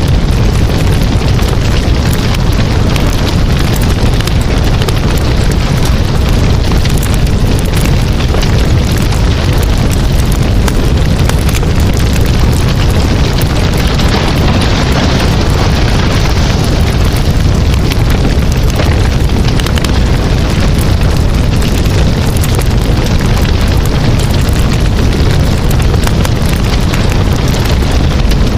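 Campfire burning: a loud, steady rush of flames with dense crackling and popping of burning wood.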